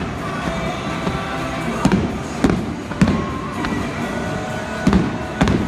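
Aerial fireworks shells bursting, about five sharp bangs at uneven intervals, over music playing throughout.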